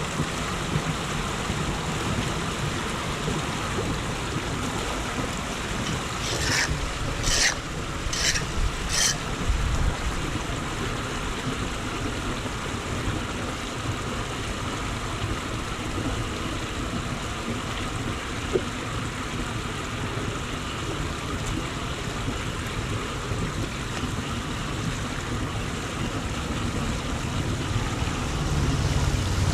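Steady rush of floodwater with wind on the microphone. About six seconds in come four short, sharp noises over about three seconds.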